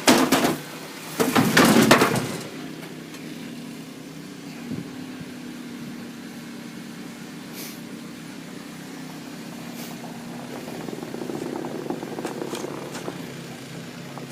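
A car engine running steadily while the car is being driven through deep snow. In the first two or so seconds there are two loud rushing bursts.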